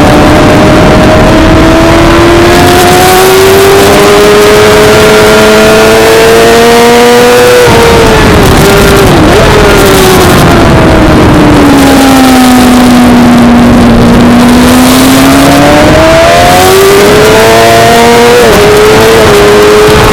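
Suzuki GSX-R600 inline-four race bike engine at high revs on track, under a constant rush of noise. Its pitch climbs steadily for about seven seconds, drops suddenly with a couple of quick pitch flicks as the bike slows for a corner, sinks lower, then climbs hard again with a brief dip at a gear change near the end.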